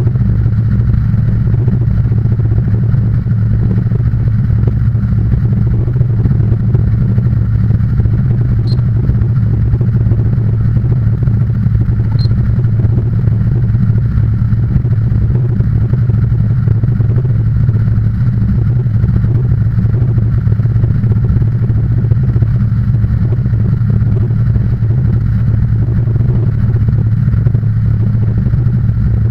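Steady, low vehicle engine and road noise, with two brief high chirps about three and a half seconds apart.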